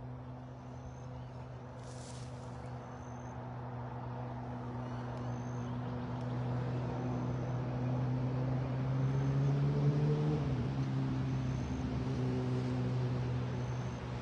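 Engine of a passing vehicle, a steady hum that grows louder for about ten seconds, then drops in pitch as it goes by about two-thirds of the way through and eases off slightly.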